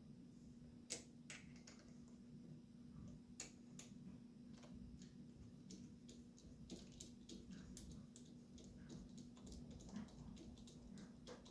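Near silence: faint, irregular light clicks of hand tools at work on the engine, over a low steady hum. The clicks come more often in the second half, with one sharper click about a second in.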